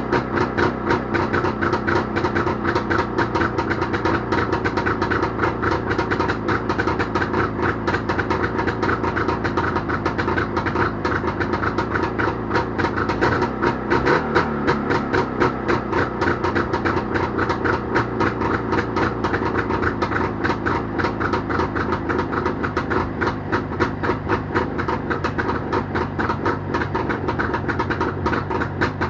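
Jawa motorcycle two-stroke engine running after repair, with a fast, even firing pulse. There is a brief change in pitch about halfway through.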